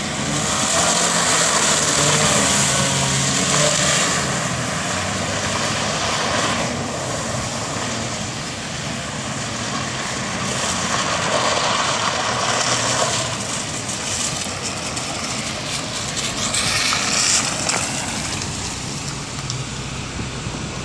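Saturn Sky's engine running at varying revs under a loud hiss of tyres and spray on a wet road as the car drifts, the noise swelling and easing several times.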